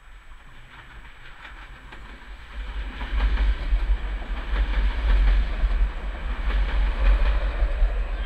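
A Czech Railways class 471 CityElefant double-deck electric multiple unit passing close by, its wheels clattering over rail joints and points. The rumble rises sharply about two and a half seconds in as the train draws level, and stays loud.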